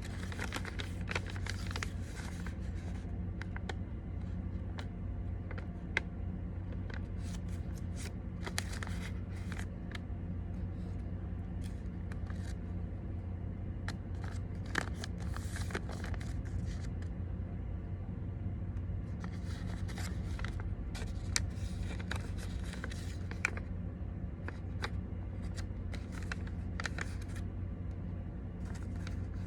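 Sheet of paper being handled, folded and creased, giving irregular rustles and short crisp scrapes over a steady low hum.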